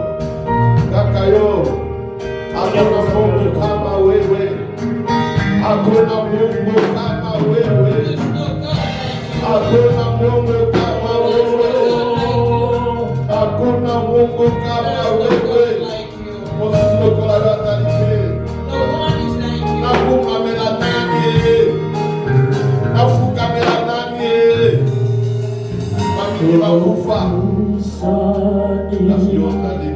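Live gospel praise music: a band with bass and drums accompanying singing.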